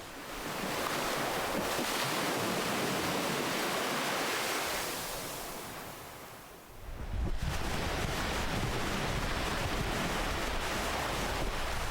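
Ocean surf: a wave washes in and draws back, fading to a lull about six seconds in, then the next wave breaks abruptly about seven seconds in, with a deeper rumble, and the surf runs on steadily.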